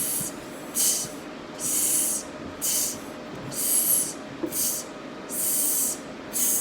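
A voice making the hissed "sss-t" sound of the ST consonant blend over and over, about eight short hisses in a row with brief gaps, practising the blend in speech-therapy drill.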